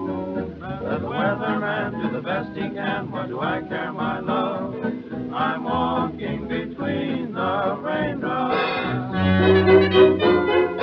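1928 dance-band orchestra playing an instrumental passage of a foxtrot, a wavering melody line over rhythm accompaniment, with the band coming in on sustained chords about nine seconds in. It has the narrow, muffled sound of an old 78 rpm record.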